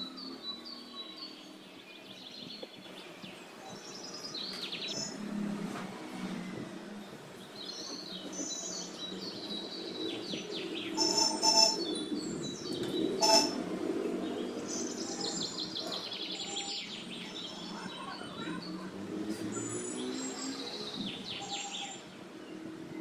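Small birds chirping and calling over and over. Two sharp knocks come about halfway through.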